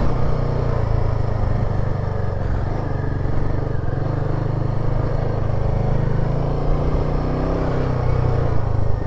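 Royal Enfield Himalayan 450's single-cylinder engine running steadily as the motorcycle is ridden off-road, with small changes in pitch as the throttle varies.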